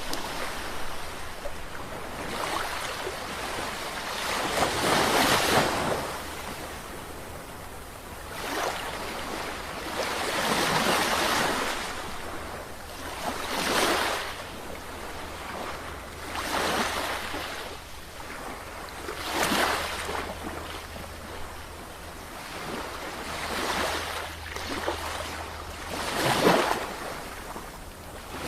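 Sea waves breaking and washing in, a surge of surf every few seconds, each swelling and then fading.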